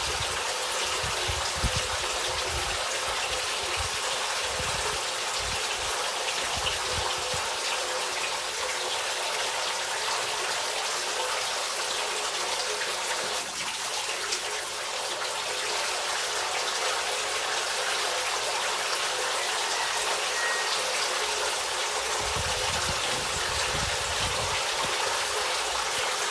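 Steady splashing and trickling of pond water running from a homemade pond filter's outlet back into the pond, the flow driven by a submersible pump.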